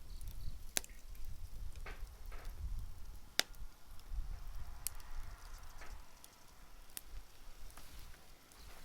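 Wood bonfire crackling: a handful of sharp pops and snaps, the loudest about three and a half seconds in, over a low rumble.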